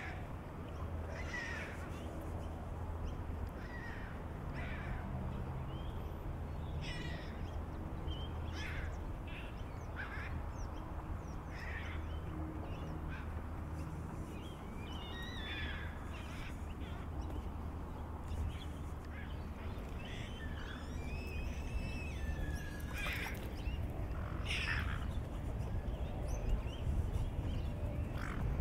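Birds calling, short calls scattered through the whole stretch, over a steady low rumble.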